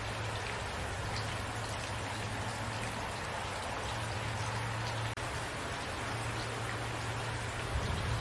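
Steady rain falling, an even hiss with scattered drops ticking on a surface, under a low rumble that comes and goes. The sound drops out for an instant about five seconds in.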